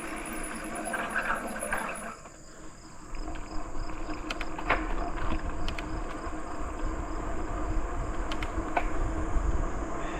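Bicycle rolling along a trail: steady tyre and wind noise with a few sharp clicks and rattles, and insects chirping high and fast for the first two seconds.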